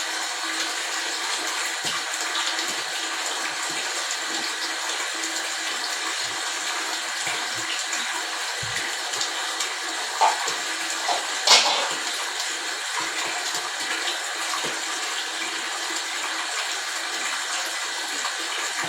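Steady rushing water noise, even and unbroken, with a brief sharper sound about eleven and a half seconds in.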